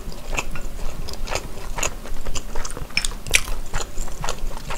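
Close-miked chewing of sundae (Korean blood sausage): wet mouth clicks and smacks, about three a second.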